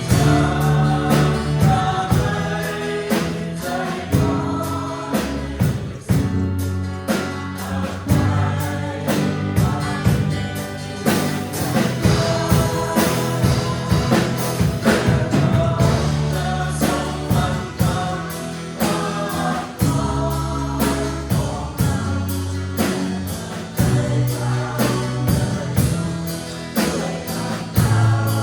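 Church worship band playing a gospel song with a group of voices singing together, over bass and a steady drum beat.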